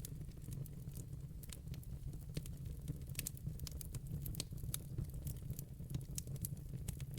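Wood logs burning in a fireplace: irregular sharp crackles and pops, several a second, over a steady low rumble of the fire.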